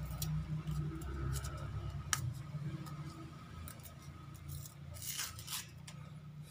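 Scissors cutting through plastic packaging, with sharp snips and crinkling of the wrap over a low steady hum.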